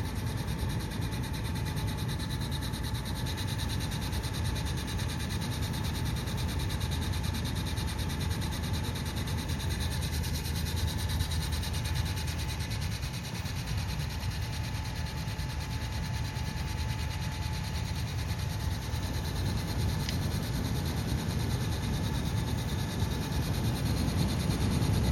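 Hayward TriStar 950 pool pump running with an awful, steady grinding rasp over a low hum and a thin whine, though the pump is new.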